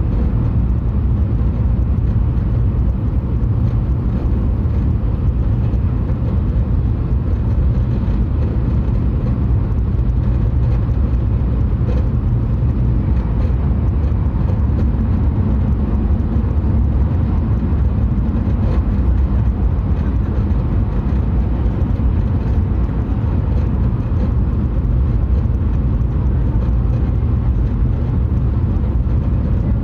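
Hayabusa Shinkansen train running at speed, heard from inside the passenger car: a steady low rumble of running and track noise.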